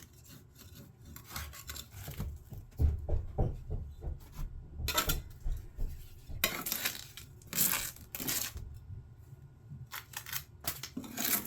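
Irregular handling noise around a removed mower deck: scattered metal clinks, knocks and rubbing, with a few louder knocks around the middle and near the end.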